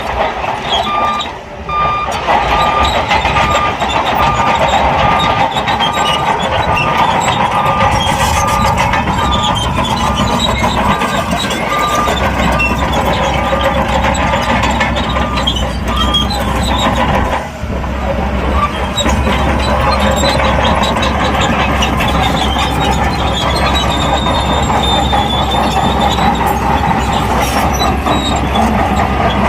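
Shantui crawler bulldozer's diesel engine running under load while its steel tracks clank and squeal. A steady beeping, like a reversing alarm, sounds over it for the first dozen seconds.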